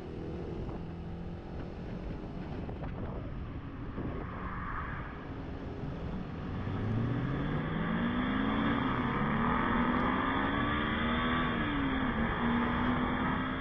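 Ford Mustang engine accelerating hard, its note climbing, dropping briefly at a gear change and climbing again before settling, over steady wind and road noise. It sounds bloody brilliant.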